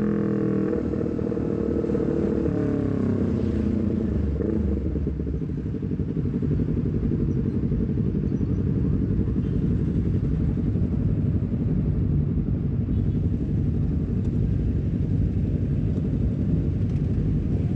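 Honda CBR250RR parallel-twin engine through a Leovince GP Corsa carbon silencer, revs falling in a couple of steps from high rpm over the first few seconds, then running steadily at low revs.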